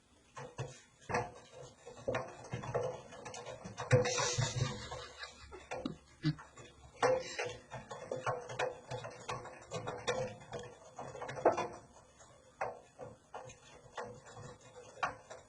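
A cat scrabbling and moving inside a washing machine drum, making irregular knocks, thumps and rattles against the metal drum.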